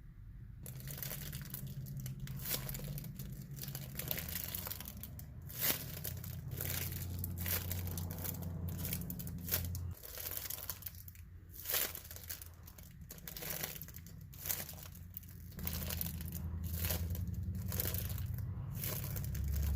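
Homemade squishy toy being squeezed and handled by hand: crinkling and rustling with scattered sharp crackles, over a low steady hum.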